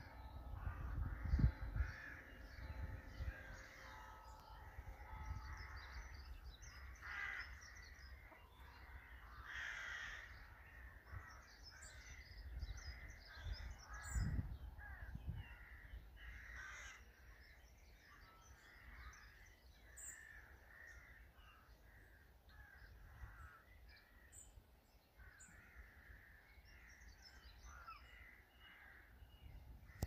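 Several wild birds calling and singing, a busy scatter of short chirps and harsher calls. There are brief low rumbles about a second and a half in and again about fourteen seconds in.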